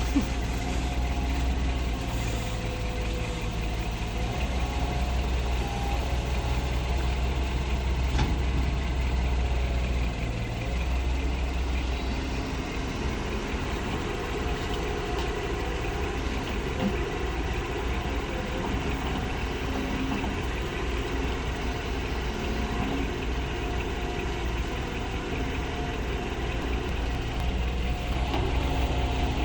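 Truck engine running steadily with a deep, even hum.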